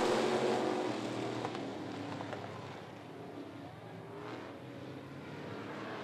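Dirt-track race cars' engines running as the pack races on after a restart, loudest at first and fading over the first few seconds as the cars pull away, then rising a little near the end as they come back around.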